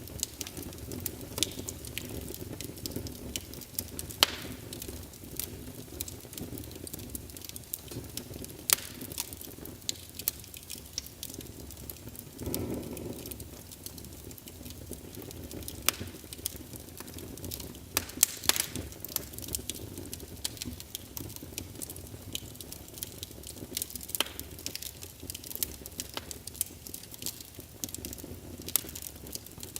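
Wood logs burning in a fireplace: a steady low rumble of flame with irregular sharp crackles and pops from the burning wood. A brief swell in the flame noise comes about twelve seconds in.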